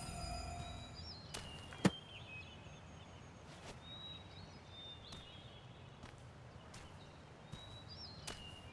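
Music fading out at the start, then faint outdoor ambience with a few short high chirps and scattered sharp clicks, the loudest click just under two seconds in.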